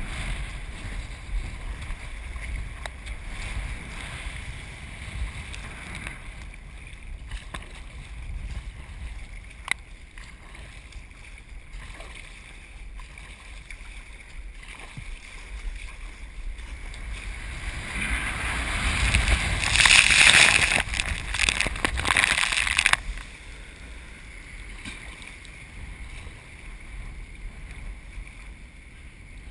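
Hurricane surf with wind buffeting the microphone, a steady low rumble. About two-thirds through, a loud rush of breaking whitewater swells for about five seconds, then cuts off suddenly.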